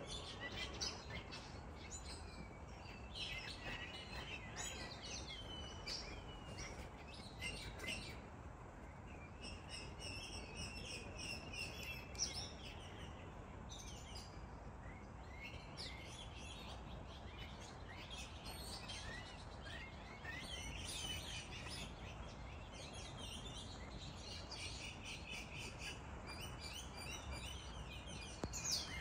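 Several small birds chirping and twittering, their calls overlapping, over a faint steady low background noise.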